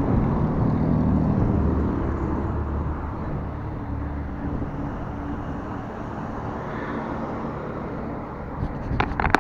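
Road traffic and wind noise heard while cycling along a street, with a motor vehicle's steady hum loudest over the first couple of seconds. A few sharp clicks sound near the end.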